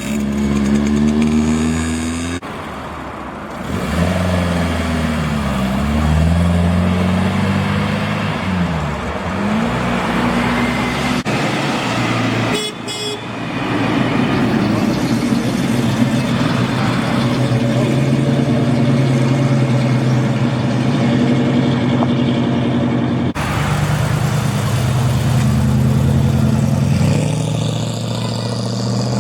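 Classic car engines running and revving as the cars drive off, their pitch rising and falling several times. A short horn toot comes about halfway through.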